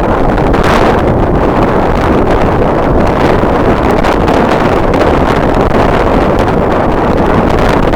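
Strong wind blowing across the microphone: a loud, steady rumble with no let-up.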